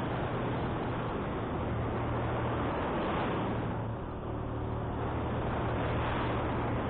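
Wind rushing over a moving motorcycle's microphone, with the motorcycle's engine running steadily underneath. The wind noise eases briefly about four seconds in.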